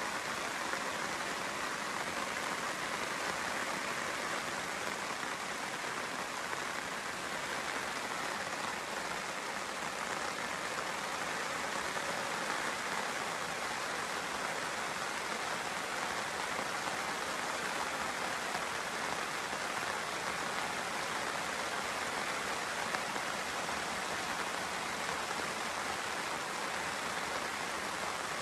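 Steady rain falling, heard from under a camping tarp.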